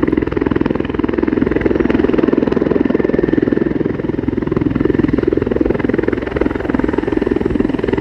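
CH-146 Griffon helicopter (a military Bell 412, twin-turbine) running steadily, its rotor beating in a fast, even pulse.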